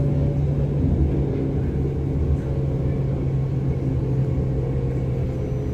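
Interior of a DB class 425 electric multiple unit running along the line: a steady low rumble with a constant electric hum from the drive.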